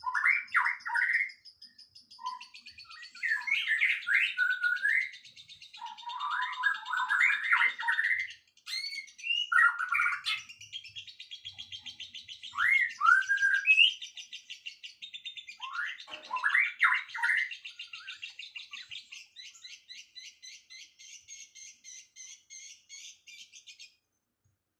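Songbird singing: bursts of quick sweeping chirps over a long, fast, rattling trill, which cuts off abruptly near the end.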